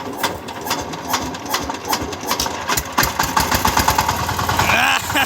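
Power tiller engine being started: slow, uneven knocks for the first few seconds, then the engine catches about three seconds in and runs with a steady, fast, even chug.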